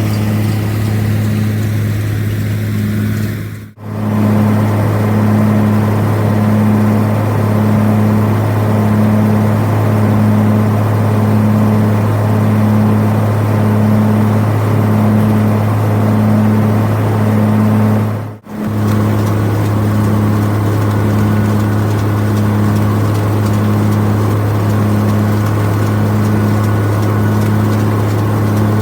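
White 2-135 tractor engine running steadily under load while pulling a round baler, with a low pulse repeating about once a second. The sound drops out briefly twice, near 4 seconds and near 18 seconds.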